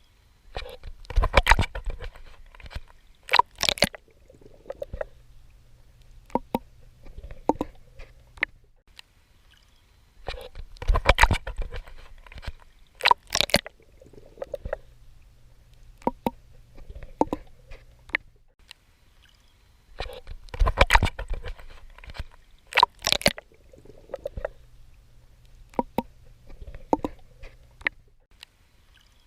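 A swimmer in the sea: bursts of splashing strokes through the water, then quieter stretches of small splashes over a low steady hum. The pattern comes round about every ten seconds.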